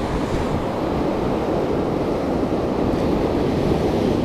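Pacific surf washing steadily on the beach, with wind rumbling on the microphone.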